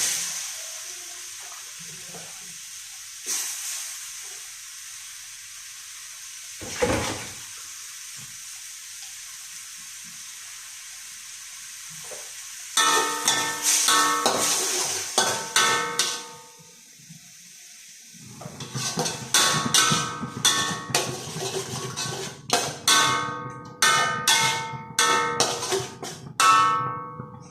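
Food sizzling in a frying pan with a steady hiss and a couple of knocks of a utensil against the pan. About halfway through, music with a steady beat comes in and carries on.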